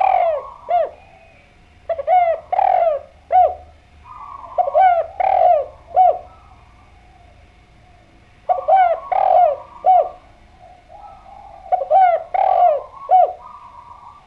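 Spotted dove (derkuku) cooing: a phrase of three or four short, falling coos, repeated about every three seconds, five phrases in all.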